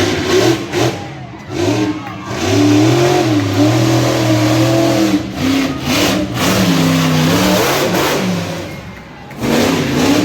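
Monster truck engine revving hard and unevenly, its pitch rising and falling as the throttle is worked, with a brief drop near the end before it surges again.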